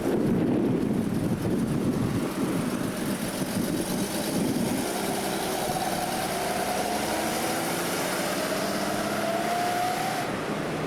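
Car engine running, rough and low at first, then a slowly rising whine from about five seconds in as it picks up speed.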